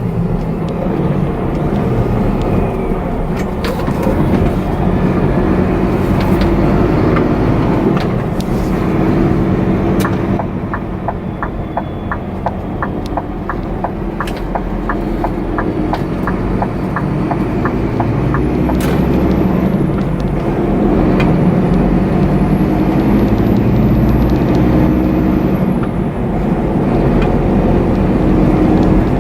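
Scania truck's diesel engine running steadily while driving, with a run of even clicks, about three a second, for several seconds in the middle.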